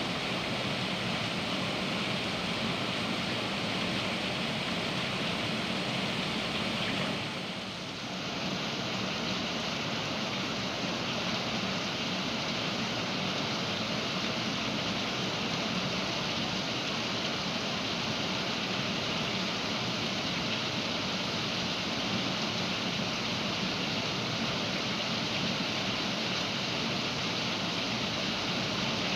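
Heavy rain falling steadily, a dense even hiss, with a brief dip in level about seven seconds in.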